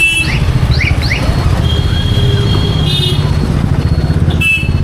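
Wind buffeting the microphone on a moving electric scooter, a steady low rumble, with road traffic around it and short horn toots near the start, about three seconds in and near the end.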